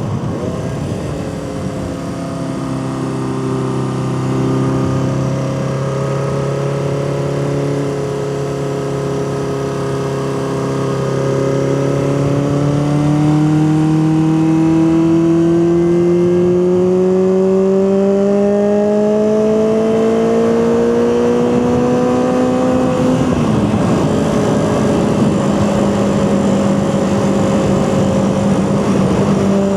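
Honda CB400/4 Super Sport's air-cooled inline-four engine under way, its revs climbing slowly as it pulls through a gear. About 23 seconds in the pitch drops sharply with a gear change, and the engine then runs at steady cruising revs.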